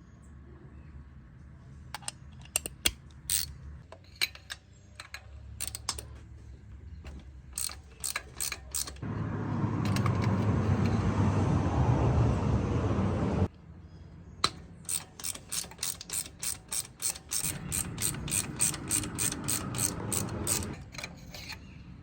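Socket ratchet wrench clicking as it is swung back and forth on the engine during a spark plug change: short irregular runs of clicks, then a fast even run of about five clicks a second in the second half. A louder rushing noise fills several seconds in the middle.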